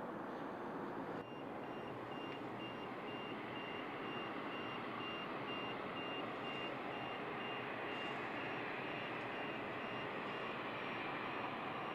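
A vehicle's reversing alarm beeping at an even rate over a steady background roar, likely the taxiing jet's engines; the beeping starts after a short break about a second in and stops near the end.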